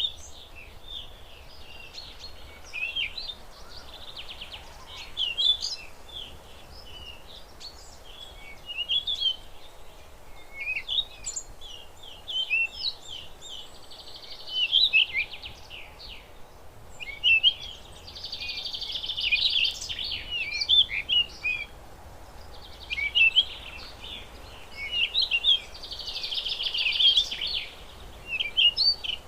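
Several songbirds chirping and singing: many short, sweeping high chirps, with a few bouts of fast trilling.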